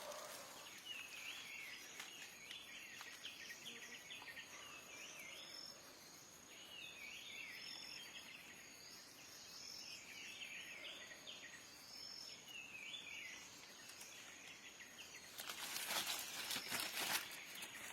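A small bird calling over and over in short, rapid chirping phrases, with a brief high note that recurs. Loud rustling comes in near the end.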